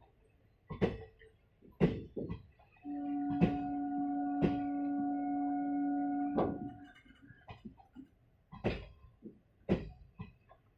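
Train wheels knocking over rail joints at roughly one-second intervals as a slow departing train rolls past. In the middle a train horn sounds one steady, even note for about three and a half seconds.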